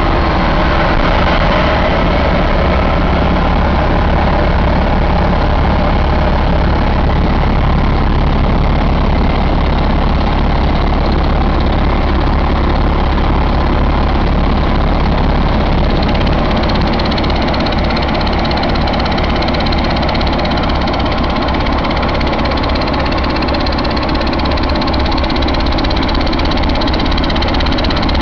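2020 Paccar MX13 inline-six diesel engine idling steadily, with no revving.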